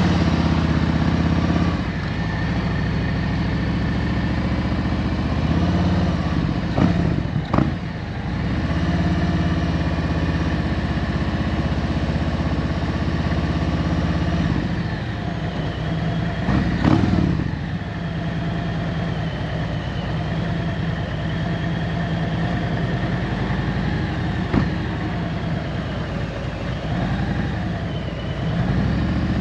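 Harley-Davidson Road Glide's Milwaukee-Eight 114 V-twin engine running while the bike is ridden, its pitch changing as it speeds up and slows. A few brief sharp noises come through about seven and seventeen seconds in.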